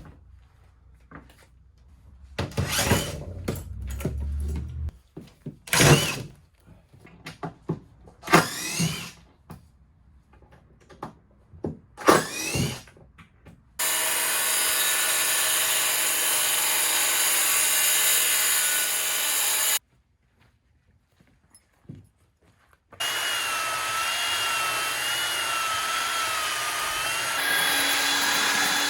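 Cordless drill or driver whining up in about four short runs as screws and old hardware are backed out of a wooden bed platform. Then a power tool runs steadily on the wood for several seconds, stops, and starts again after a short gap.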